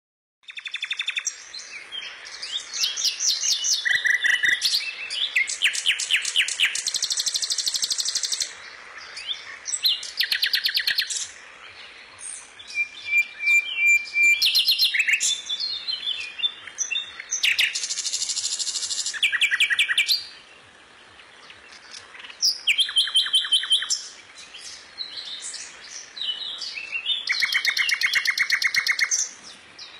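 Songbirds singing, with overlapping chirps and rapid trilled phrases that come in bursts every second or two, and a brief lull about two-thirds of the way through.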